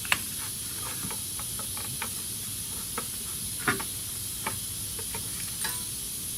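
Scattered small clicks and knocks from hand work at a hose clip in a car's engine bay, the loudest about two thirds of the way through, over a steady high hiss.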